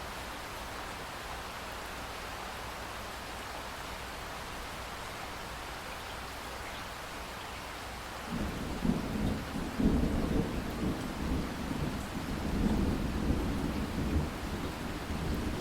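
Steady rain falling, with a long roll of thunder that rumbles in about halfway through and keeps rolling, swelling and easing, to the end.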